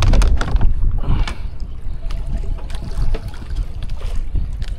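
Strong wind rumbling on the microphone over splashing, lapping water, with scattered short clicks.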